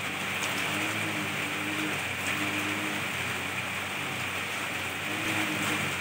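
Steady rain falling on leafy trees and shrubs: an even hiss, with a few drops ticking now and then.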